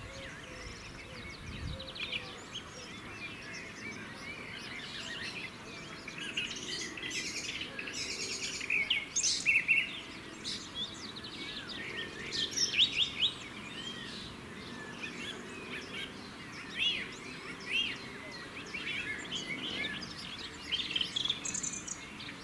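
Several songbirds chirping and singing in short, irregular calls and trills, busiest in the middle, over faint outdoor background noise.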